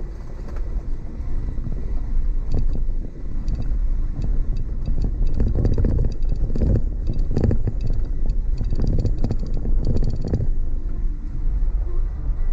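Car driving over a rough dirt track, heard from inside: a steady low rumble with irregular knocks and rattles, most frequent toward the middle.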